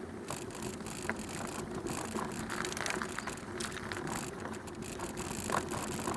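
Bicycle being ridden along a canal towpath: steady tyre noise with scattered small clicks and rattles from the bike.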